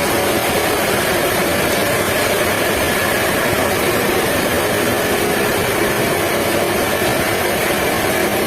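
Sawmill machinery running steadily, a constant mechanical noise with a faint hum of steady tones.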